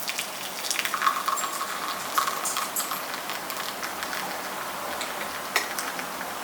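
Syphon coffee maker at work: a steady hiss with scattered light clicks and crackles.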